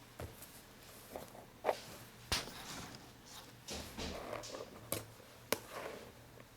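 Close-miked scratching and rustling of paper on a notebook, with a few sharp clicks.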